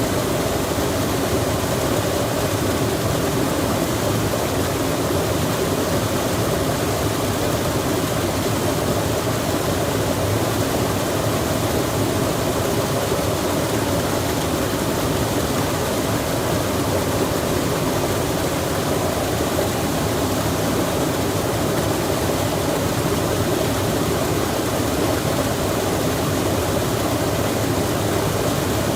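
Stream water rushing with rain falling, a steady even noise with no breaks or single events.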